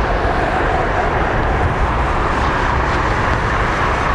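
Steady jet engine noise with a deep low rumble and no change in level.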